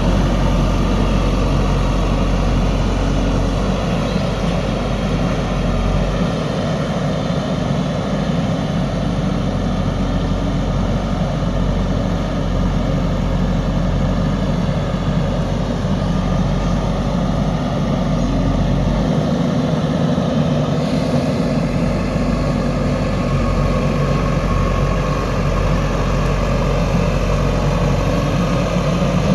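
JCB 3DX backhoe loader's diesel engine running steadily while digging and loading soil. Its deepest rumble eases twice for a couple of seconds, about six seconds in and again near twenty seconds.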